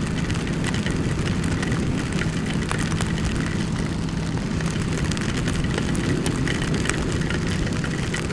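Ducati XDiavel's 1262 cc L-twin engine running steadily at low speed, with no revving, under a constant hiss of rain and wind and scattered sharp ticks of raindrops striking.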